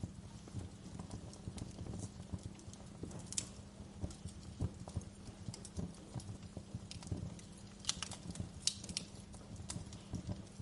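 Fire crackling, with irregular snaps and pops, a few sharper clusters of them about three and a half seconds and eight to nine seconds in, over a low steady rumble of flames.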